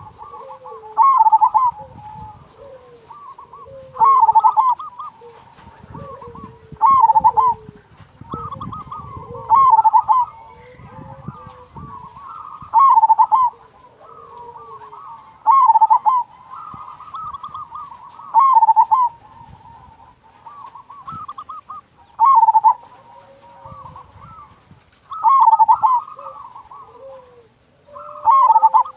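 Zebra doves (perkutut) cooing. A loud, rippling cooing phrase comes again about every three seconds, with softer, lower coos in between.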